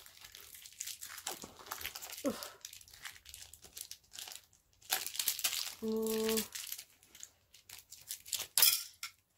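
Rustling, crinkling and light clattering of hair accessories being sorted by hand. There is a short pitched sound about six seconds in.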